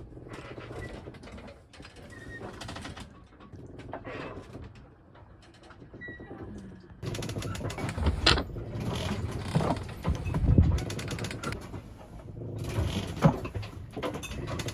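A small sailboat creaking as it rolls at anchor in the swell. It gets louder about halfway through, with a low rumble and a few sharp knocks.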